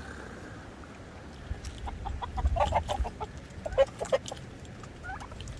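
Korean native chickens clucking in a quick series of short calls. The calls start about a second and a half in and go on for about three seconds.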